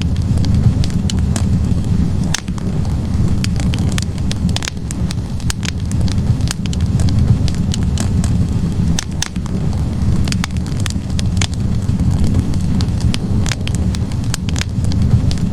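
Wood fire burning in a fireplace: a steady low rumble of the flames with frequent sharp crackles and pops from the burning logs, scattered irregularly throughout.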